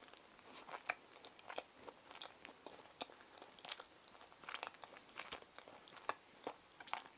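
A child chewing a soft sandwich with her mouth closed. The sound is faint: small wet clicks from the mouth at irregular intervals, a few each second.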